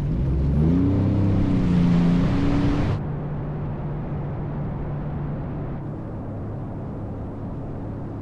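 Sea-Doo jet ski engine revving up, its pitch rising over the first second, then running steady. About three seconds in the sound changes abruptly to a lower, duller steady engine note.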